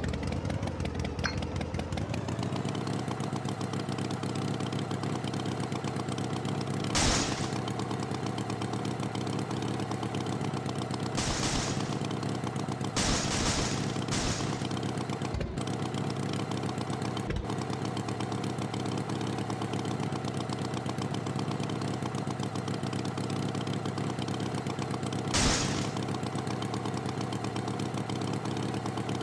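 Tractor engine running, rising in pitch over the first couple of seconds and then idling steadily, with a few short noisy bursts, the loudest about seven seconds in and again near the end.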